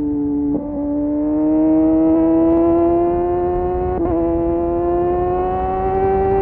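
Kawasaki Ninja motorcycle engine through an Arrow exhaust with the dB killer removed, pulling under throttle, its note climbing slowly and steadily. The note breaks briefly twice, about half a second in and about four seconds in.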